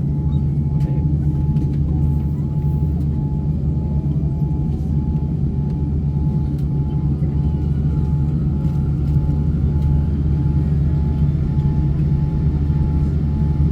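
Jet airliner cabin noise: the engines and rushing air give a steady low rumble with a thin, steady high hum over it.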